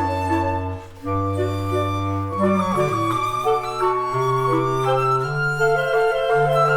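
Woodwind quintet playing a waltz movement, with flute and clarinet lines over sustained lower notes and several held pitches changing together in steps. The music dips briefly about a second in, then resumes.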